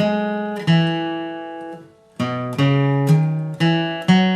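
Acoustic guitar flatpicking a bluegrass melody line, single picked notes with chords ringing under them. About two seconds in one note is damped and there is a short break, then the picking starts again.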